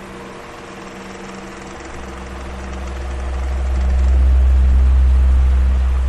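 Electric fan running, a steady motor hum over the rush of air. A deep rumble swells up from about two seconds in, is loudest just before the end, then starts to ease.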